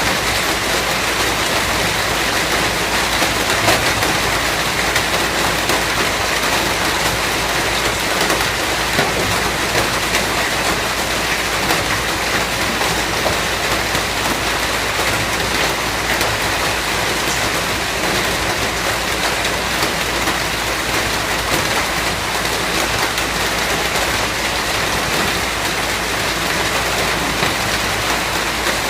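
Steady, heavy rain falling on a surface, a dense even hiss with many small drop ticks.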